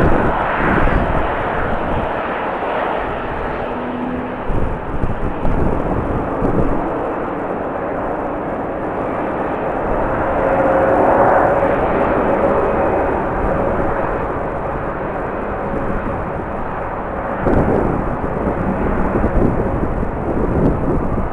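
Jet airliner engines running, a steady rush with a faint whine that swells about halfway through. Strong wind gusts buffet the microphone with an irregular low rumble.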